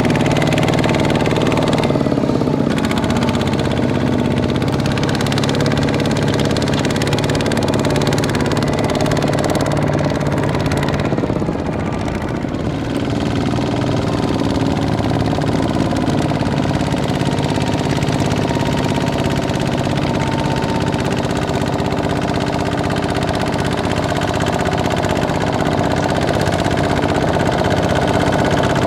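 Kubota ZT155 small tractor's single-cylinder diesel engine running steadily with a knocking chug; its note dips briefly about eleven seconds in, then picks up again.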